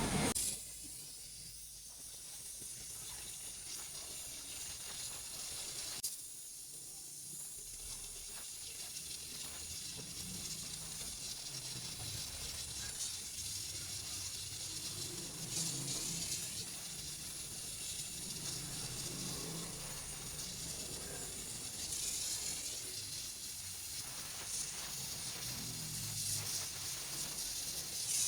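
Welding torch hissing steadily while cast iron is braze-welded with brass wire, with a low uneven rumble underneath.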